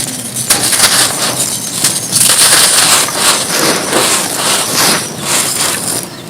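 Gritty mud chunks being crumbled and crushed, a run of dry crunching and crackling that comes in repeated surges and eases off near the end.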